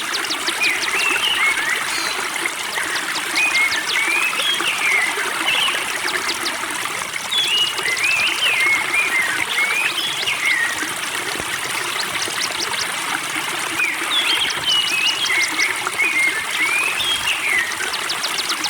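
Spring water trickling and gurgling steadily, full of quick bubbling chirps.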